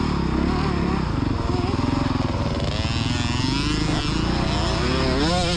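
Small motocross dirt bike engine running under throttle, its pitch rising and falling as the rider opens and eases the throttle, climbing again near the end.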